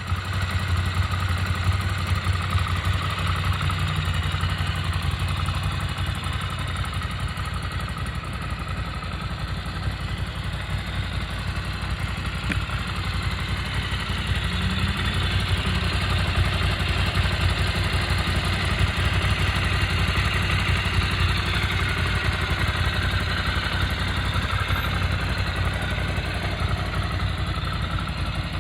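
2019 Ducati Scrambler Classic's air-cooled L-twin engine idling steadily.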